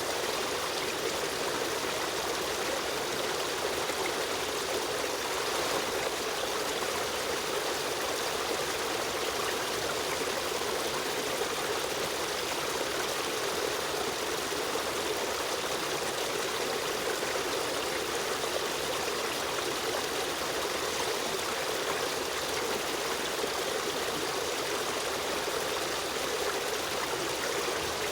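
Steady rushing and trickling of a river stream's running water.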